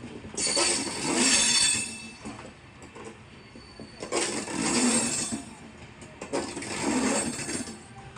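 Passenger train coaches rolling past at low speed, the wheels clattering over rail joints in regular grouped surges about every three seconds, with some faint high squeal from the wheels.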